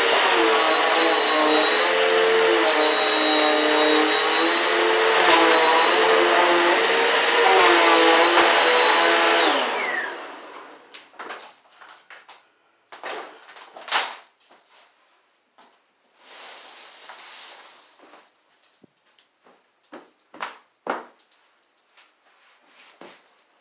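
Eureka PowerSpeed upright vacuum cleaner running with a steady high whine, then switched off about ten seconds in, its motor winding down with a falling pitch. After that come scattered small clicks and knocks, with a short soft hiss in the middle.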